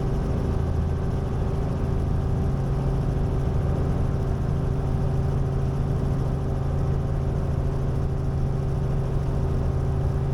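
Robinson R44 Raven I helicopter's six-cylinder Lycoming piston engine and rotors running in flight: a steady, loud drone with a low hum that does not change.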